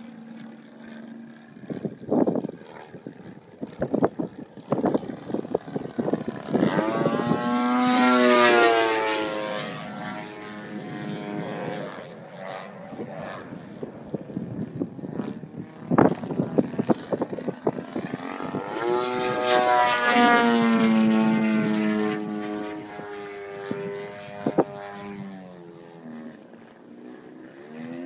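Small propeller engine being run up and throttled back twice, its pitch rising to a high whine and then falling away, with sharp pops and knocks in between.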